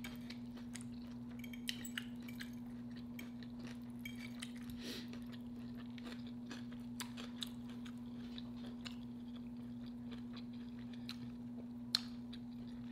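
Close-miked chewing and soft wet mouth sounds, with scattered small clicks, over a steady low hum.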